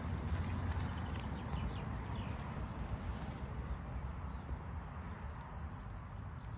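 Low rumbling handling noise, with small birds chirping faintly in the background.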